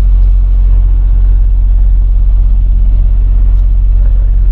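Semi truck's diesel engine running: a steady low drone.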